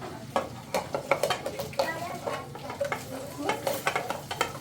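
Irregular clinks and knocks of a utensil against a metal pot and dishes, as in stirring, several sharp clicks a second.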